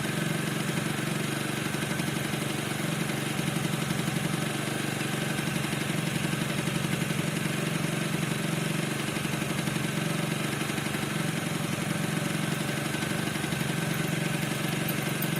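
Piaggio NRG 50 scooter's 50cc two-stroke engine idling steadily, the engine the owner reports as squeaking without knowing the cause.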